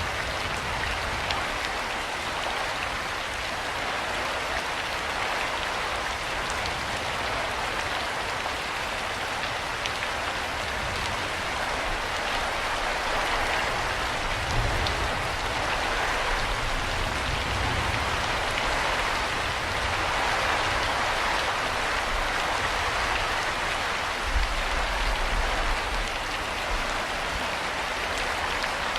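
Steady rain falling, an even hiss with many small drop ticks. A low rumble swells about halfway through and again near the end.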